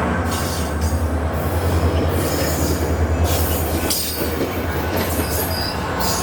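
A diesel passenger train moving through the station, its engine rumbling low and steady while the wheels squeal and clatter on the rails.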